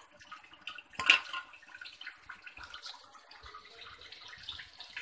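Cornflour-coated prawns deep-frying in hot oil in a kadhai, a steady crackling sizzle of many small pops. A single sharp knock about a second in is the loudest sound.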